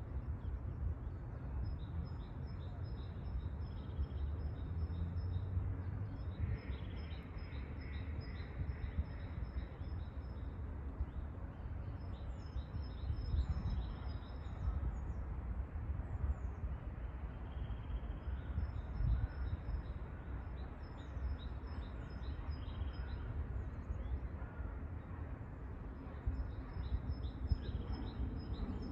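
Small songbirds singing, repeated high trills and chirps with a few quick sweeping calls midway, over a steady low rumble.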